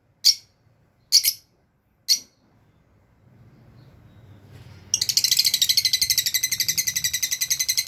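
Lovebirds calling: three short, sharp chirps about a second apart, then from about five seconds in a loud, fast chattering run of many high chirps a second.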